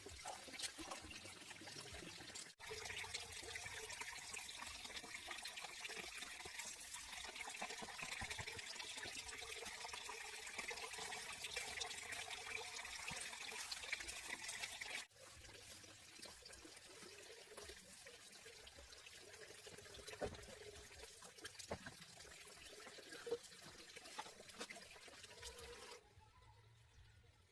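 Water trickling and pouring. It comes in separate stretches that change abruptly about two and a half seconds in and again about halfway through, then fades away near the end.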